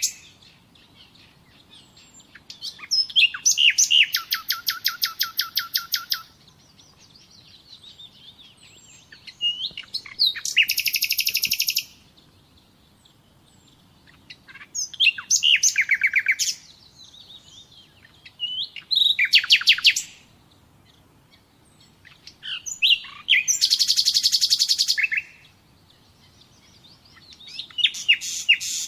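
A songbird singing short phrases of fast, high trills. Each phrase lasts one to three seconds, and a new one comes about every four seconds with a brief quiet gap between.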